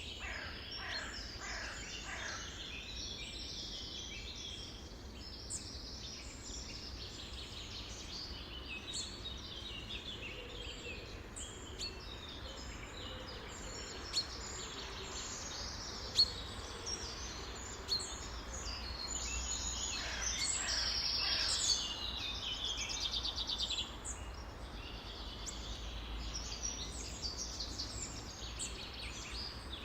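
Many songbirds chirping and trilling at once, a dense overlapping chorus, with a louder run of rapid trills about two-thirds of the way through.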